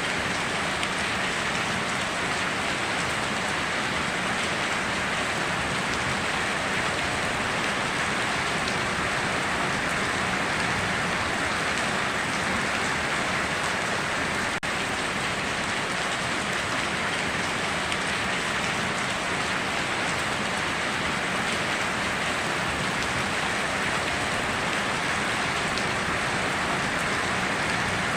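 Steady heavy rain falling and pattering on surfaces, an even hiss with no thunder.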